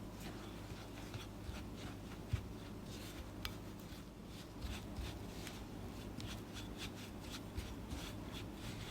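Faint scraping and rustling of baking utensils handling ingredients, with scattered light ticks over a low steady hum.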